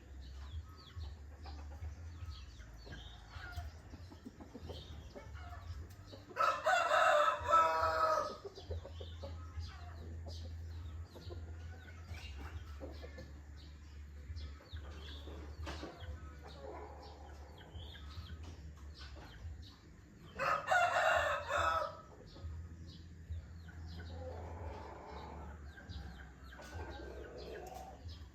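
Rooster crowing twice, each crow under two seconds long, about 7 and 21 seconds in, with fainter calls from other fowl farther off in between. Small birds chirp throughout over a steady low hum.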